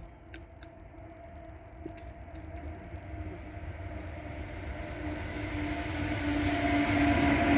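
A train approaching and growing steadily louder: a low rumble with a steady two-note whine and a rising hiss. A couple of faint clicks come about half a second in.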